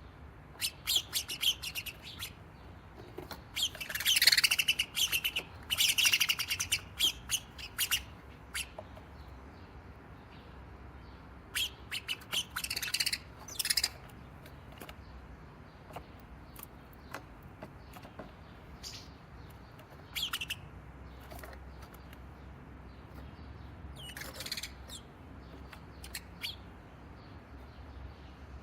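Sparrows chirping in quick, excited spells, loudest about four to seven seconds in, with a few scattered single chirps later.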